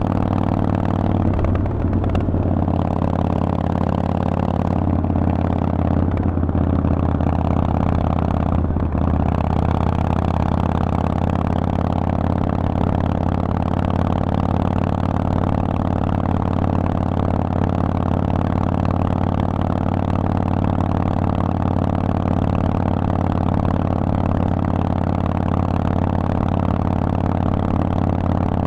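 Harley-Davidson Forty-Eight's air-cooled 1200 cc V-twin running through a Vance & Hines exhaust, a steady, loud exhaust note with a few brief dips in the first nine seconds.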